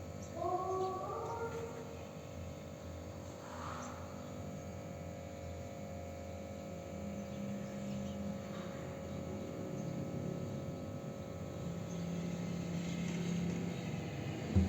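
Birds calling: a few short rising, pitched calls near the start, then fainter calls over a steady background hum.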